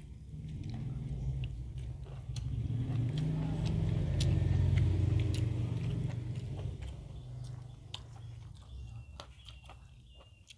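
Chewing and biting food close up, with scattered small clicks, under a low rumble that swells to a peak about halfway through and then fades.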